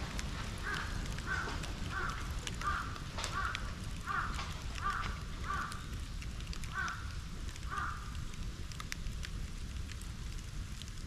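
A crow cawing about ten times in a steady series, stopping around eight seconds in, over a wood-and-bamboo bonfire crackling with sharp pops throughout.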